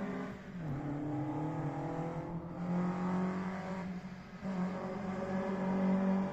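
Historic rally car's engine revving hard on a stage, its pitch dipping twice and climbing again.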